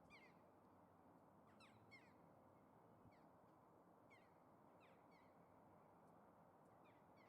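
Faint bird calls: short, sharply falling notes, singly or in quick pairs, several times over a steady low background rumble.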